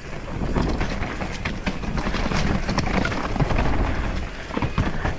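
Mountain bike descending a rough dirt trail: tyres rumbling over dirt and rocks with a constant rattle of clicks and knocks from the bike.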